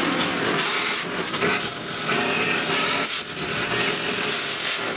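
Power tool working on the van's steel frame, a rough grinding noise that swells and eases in strokes about once a second.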